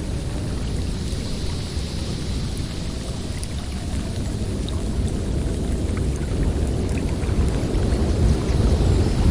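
Snowstorm wind blowing steadily: a deep rumbling gust with a thinner hiss above it, building a little louder near the end.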